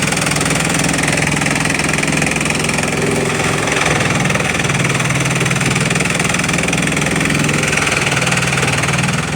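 Bamboo chipping machine running steadily, a constant low drone under a dense rattling hiss as it crushes bamboo into chips.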